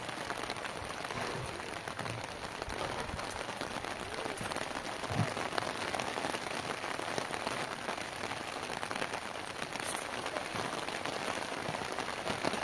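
Heavy rain falling steadily, a dense patter of raindrops.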